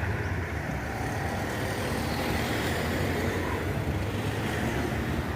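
Road vehicle engine running close by with tyre and traffic noise, a steady low rumble.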